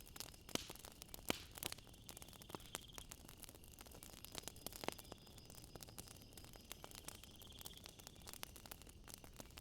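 Wood fire crackling with irregular sharp pops, over a steady high drone of night insects that twice breaks into a pulsing trill.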